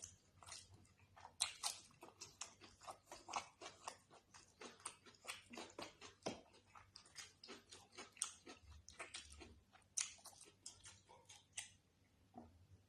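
Close-miked eating: a quick run of wet mouth clicks and smacks, several a second, as someone chews a mouthful of chicken curry and rice.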